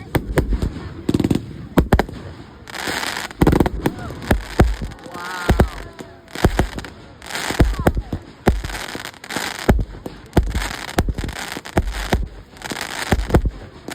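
Fireworks going off: a string of sharp bangs at irregular intervals, with several stretches of crackling about a second long.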